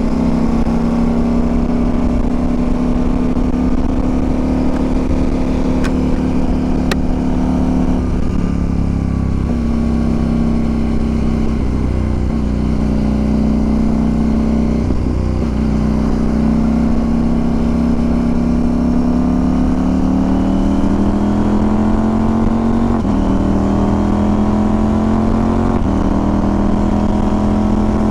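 CFMOTO Ibex 800 parallel-twin engine running under way, its pitch stepping at gear changes several times and climbing again as the bike accelerates, with wind rushing on the microphone.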